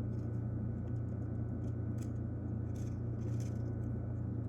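Small filament feed motor of a 3D printing pen running with a steady low hum, with a few faint clicks.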